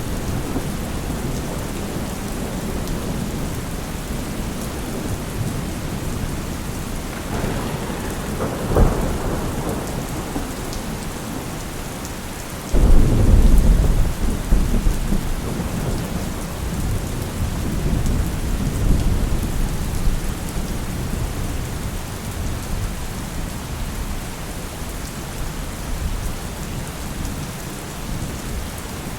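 Steady rain with thunder: a sharp crack about nine seconds in, then a loud, deep rumble that starts suddenly about halfway through and rolls on, fading slowly, with lighter rumbles after it.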